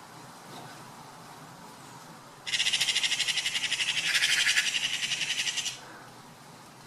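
A high, rapid buzzing trill from an animal, lasting about three seconds and starting about two and a half seconds in.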